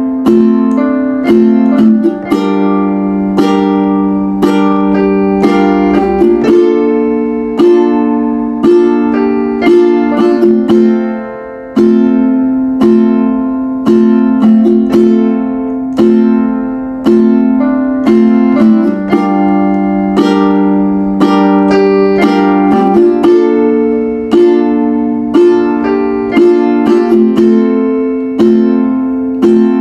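Acoustic guitar strumming chords in a steady rhythm, an instrumental passage without singing.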